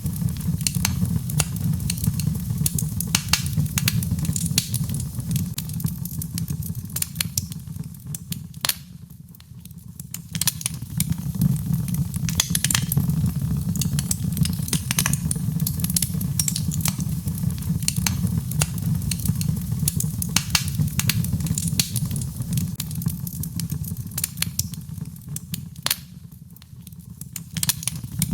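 Birchwood fire burning in a fireplace: dense crackling with many sharp pops over a steady low rumble of the flames. The crackling thins out briefly about a third of the way in and again near the end.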